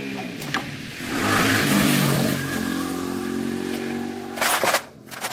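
A motor running, its pitch shifting up and down, with a cluster of sharp clattering knocks near the end.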